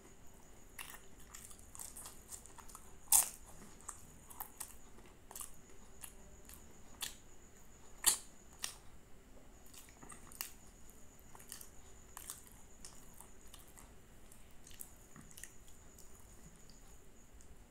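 Close-miked chewing of crispy puff-pastry aloo patty: a run of small crunches and mouth clicks, with two louder crunches about three and eight seconds in.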